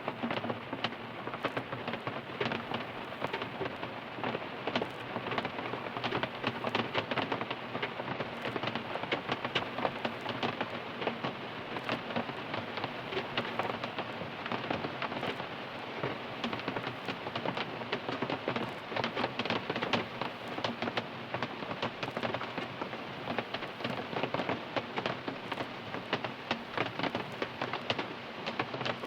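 Steady rain falling on a car, heard from inside the car: a dense, even patter of countless drops hitting the roof and body.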